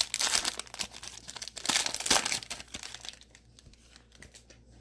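Foil trading-card pack wrapper being torn open and crinkled by hand: a dense crackle for the first two seconds or so, dropping to faint rustling after about three seconds.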